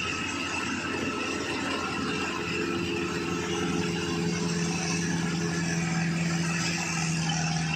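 Engine of a rice harvesting machine running steadily, a steady hum with a fast low pulse and a faint higher whine.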